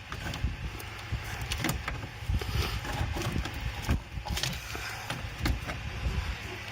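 Scattered clicks and light metal knocks of parts and tools being handled while a turbocharger is worked loose from a diesel engine, over a steady low rumble.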